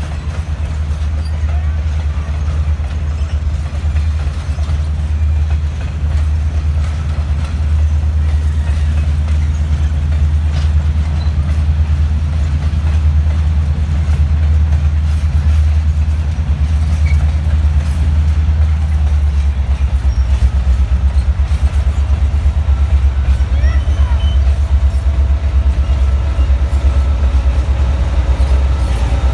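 Passenger cars of a train rolling past with a steady low rumble. About twenty seconds in, an even, rapid low pulsing grows in as the locomotive at the rear of the train draws near.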